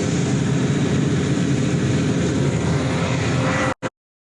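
Drilling machine's motor running steadily with a constant hum. It cuts off abruptly near the end, with one short blip before silence.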